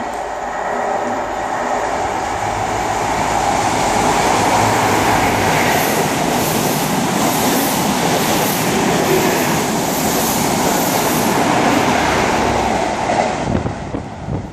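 Great Western Railway HST (Intercity 125) running through the station at speed. The roar of the diesel power cars and the rush of the coaches build up and hold loud, with a rhythmic clatter of wheels over the rail joints. The sound falls away with a few knocks near the end as the train clears the platform.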